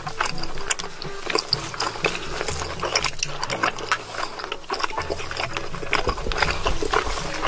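Close-miked mukbang eating sounds: wet chewing and smacking of a mouthful of steak, with many quick sharp mouth clicks.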